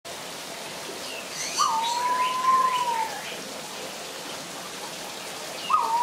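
A bird's loud, long whistle: a quick upward flick into a steady held note that dips at the end, lasting about a second and a half, heard about a second and a half in and again near the end. Smaller, higher chirps from other birds and a steady background hiss run beneath it.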